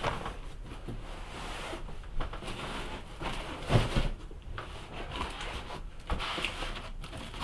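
Rustling and handling noises from a parcel and its packaging being unpacked, with a dull thump about four seconds in.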